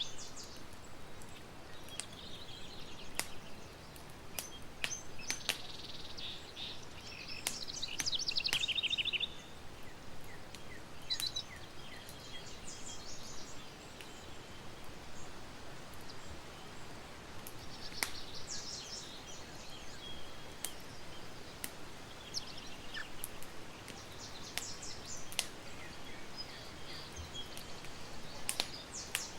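Campfire crackling, with sharp pops at irregular intervals over a steady hiss, while songbirds sing in short chirping phrases every few seconds.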